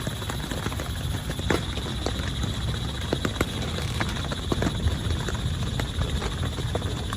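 Heavy rain on a tent, with a steady wash of rain and many irregular, sharp drops tapping on the fabric over a low rumble.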